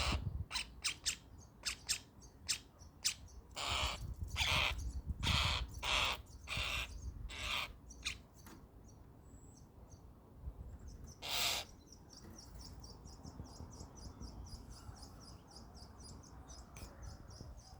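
Starlings calling at a cat: a rapid run of short, harsh calls, clicks and whistles for the first half, with one loud call a little later. Then comes a quieter, fast, high-pitched chatter.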